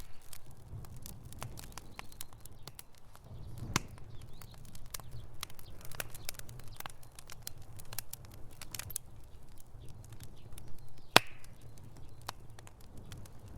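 Wood fire in a fireplace crackling, with irregular sharp pops and snaps over a low steady rumble of the flames; one louder pop about eleven seconds in.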